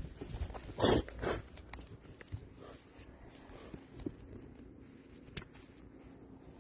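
Two short crunching, rustling noises about a second in, then faint scattered handling noise with one sharp click near the end.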